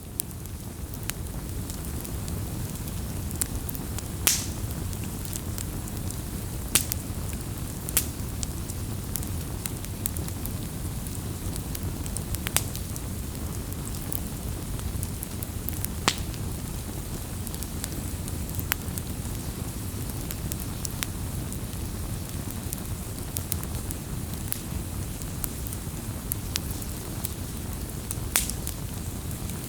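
Wood campfire burning: a steady low rush of flames with sharp crackles and pops scattered irregularly throughout, a few of them standing out loud.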